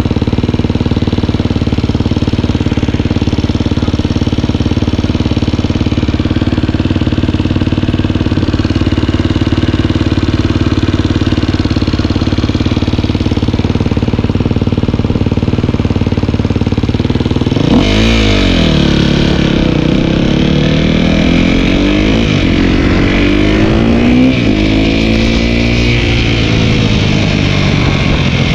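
Dirt bike engine running at a steady pitch. About two-thirds of the way in it changes abruptly and revs up and down several times, the pitch rising and falling.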